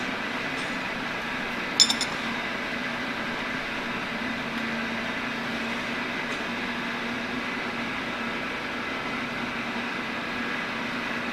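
Steady machine-shop hum with a low tone, broken once about two seconds in by a single sharp metallic clink that rings briefly, as of a metal part or tool being set down.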